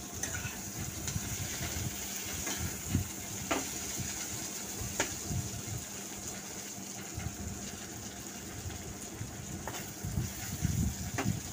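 Boal fish pieces, potatoes and onion frying in oil in a pan: a steady sizzle with a few light clicks scattered through it.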